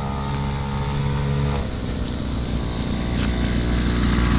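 Small engine of a mini motocross scrambler running again after being revived, a steady note that shifts about one and a half seconds in and slowly grows louder.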